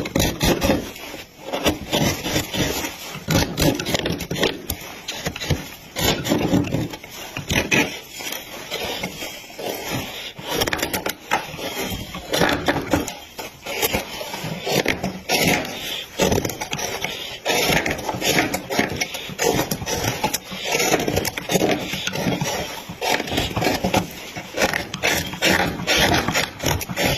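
Wood being worked by hand, with repeated irregular scraping and rasping strokes.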